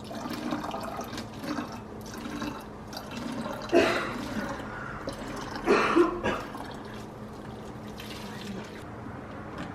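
Liquid running and splashing, with a couple of brief louder sounds about four and six seconds in.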